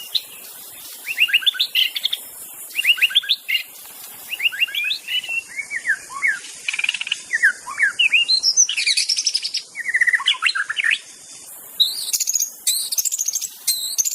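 White-rumped shama singing: a run of quick, varied phrases of whistles, rapid trills and sweeping notes, in short bursts with brief pauses between them.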